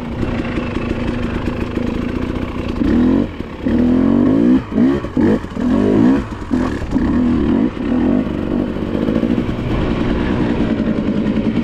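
Dirt bike engine revving. About three seconds in, the throttle is opened and closed in several short bursts, then the engine runs more steadily under throttle.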